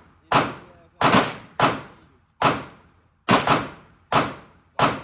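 Gunshots echoing in an indoor shooting range: about eight shots at uneven intervals, some in quick pairs, each followed by a short reverberant tail.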